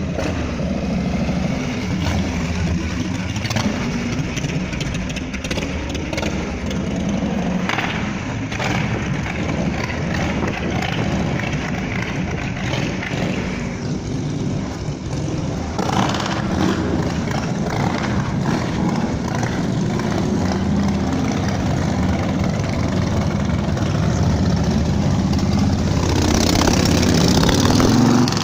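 Chopper motorcycle engine running loudly and steadily, with a few shifts in tone and getting louder near the end.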